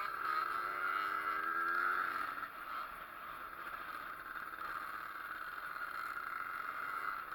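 Zündapp two-stroke engine of a pit bike running, with a clear engine note for the first two seconds or so, then settling to a quieter, steady run.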